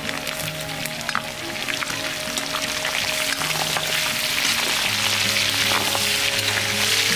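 Pork belly cubes with onion and garlic sizzling as they fry in an aluminium wok, stirred with a metal spatula. The sizzle grows louder from about halfway in.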